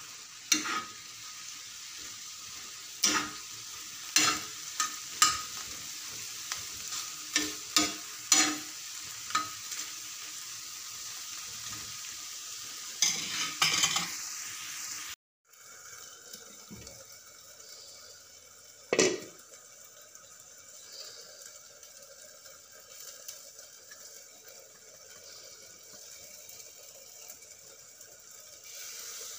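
Chicken pieces sizzling as they fry in oil in a wok, a spatula knocking against the pan again and again as they are stirred. About halfway through, the sound cuts out briefly and gives way to a quieter steady sizzle with a single knock.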